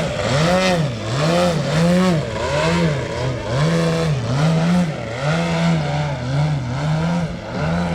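Engine of a large model aerobatic plane running in flight, its pitch rising and falling over and over about twice a second.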